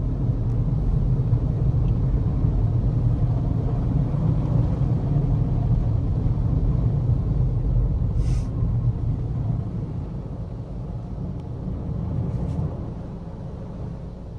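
Automatic in-bay car wash gantry travelling along the car, heard from inside the cabin as a steady low rumble that eases off after about ten seconds, with a short hiss about eight seconds in.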